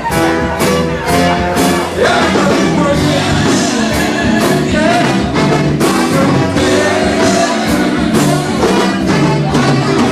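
Live band music with singing and a steady beat, brass audible.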